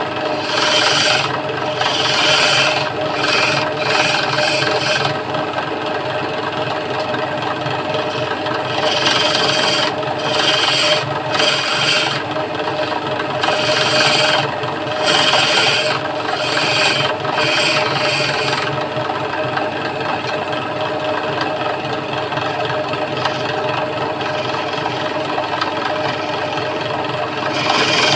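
Wood lathe running with a steady motor hum while a cutting tool works the spinning wooden leg, scraping in repeated short bursts with quieter stretches in between.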